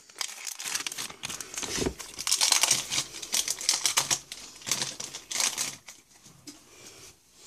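Foil wrapper of a Pokémon BREAKpoint booster pack crinkling and rustling as it is torn open and the cards are pulled out, a run of quick crackles that tails off near the end.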